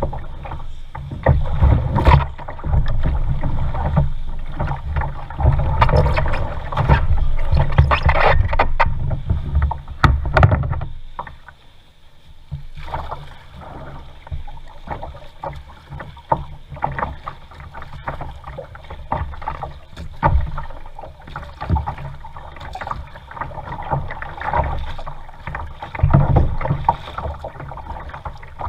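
Kayak paddling: the paddle dipping and splashing in the water, with scattered knocks. A heavy low rumble runs for about the first eleven seconds, then drops away.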